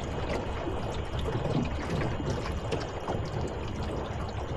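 Water sloshing and trickling against the hull of a small two-man boat, over a low, uneven rumble.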